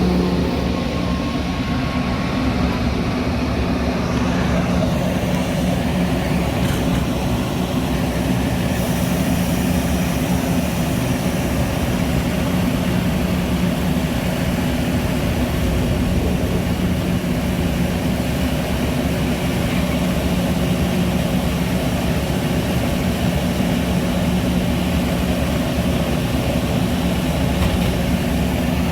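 Metra commuter train under way or standing with its diesel running: a steady drone with low engine tones over a rumbling hiss.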